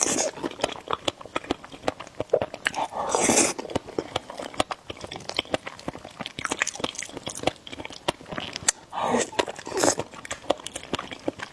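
Close-miked eating of spicy noodles and egg: chewing with many quick wet mouth clicks, and two longer, louder hissing mouth sounds about three and nine seconds in.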